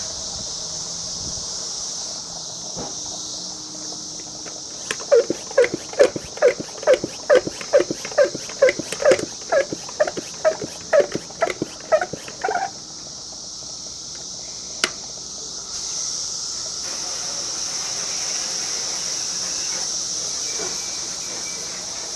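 Hand-pumped spray bottle squeaking about fifteen times, roughly twice a second, as it is worked to spray out the last of its water. Under it runs a steady high chirr of insects, and there is one sharp click.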